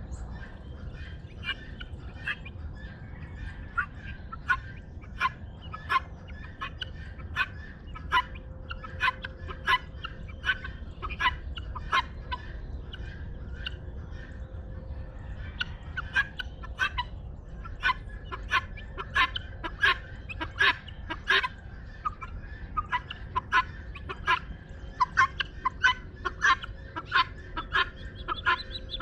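Guineafowl flock calling: harsh, clipped calls repeated in quick runs, several a second, growing busier in the second half over a low steady background rumble.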